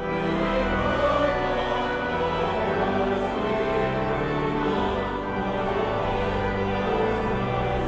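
Choral music: a choir singing with long held notes.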